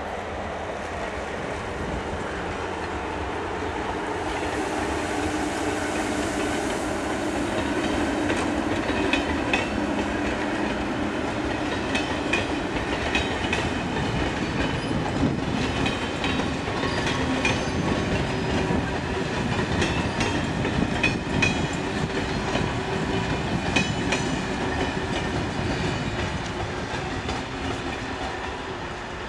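A loco-hauled passenger train of coaches rolls past, its wheels clicking over rail joints and points above a steady rumble. The sound swells over the first several seconds and eases off near the end.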